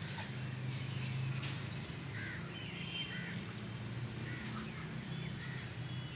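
Several short bird calls, a few within a couple of seconds, over a steady low hum.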